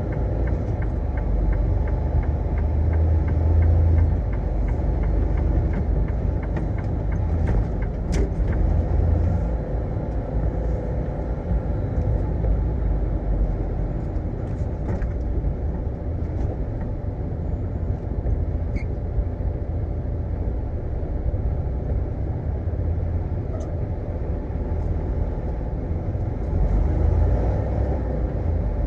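Semi-truck cab interior while driving: a steady low rumble of engine and road noise.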